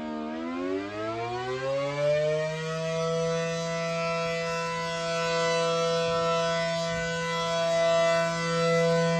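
Outdoor warning siren sounding a two-note chord. It winds back up from a low point just after the start, rising over about two seconds, holds a steady pitch, and starts to wind down again at the very end.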